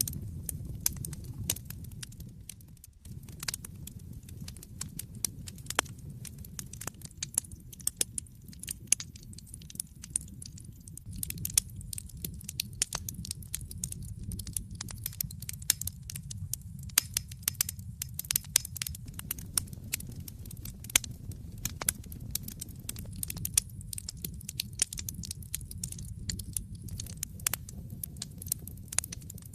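Wood fire in a fireplace crackling and popping, with dense, irregular sharp snaps over a steady low rumble of the flames.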